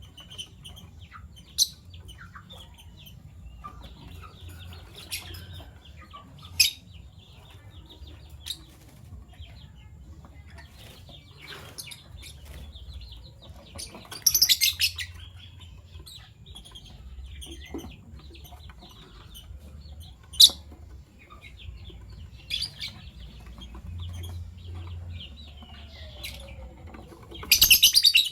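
Fischer's lovebirds giving short, sharp, high chirps every few seconds, with two louder bursts of rapid chattering, one about halfway through and one at the very end.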